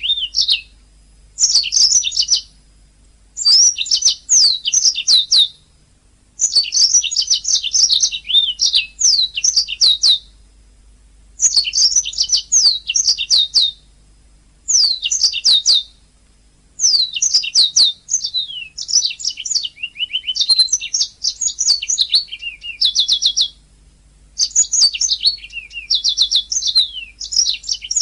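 Domestic canary singing: phrases of rapid trills and quick high chirps, one every second or two, with short breaks between.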